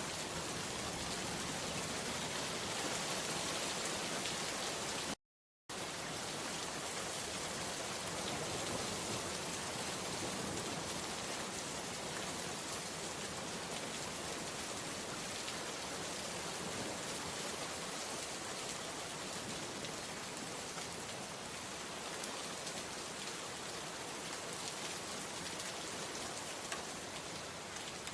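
Steady rain falling and pattering on surfaces, an even dense hiss. The sound drops out completely for a split second about five seconds in, then resumes unchanged.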